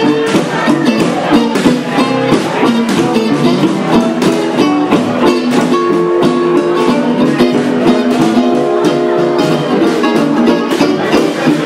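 Gypsy jazz on acoustic guitars: a steady swing rhythm under plucked melody lines.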